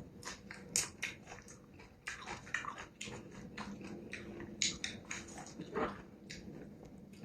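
A person eating a bowl of beef noodle soup close to the microphone: chewing and biting, with many short, irregular wet mouth clicks and smacks, several a second.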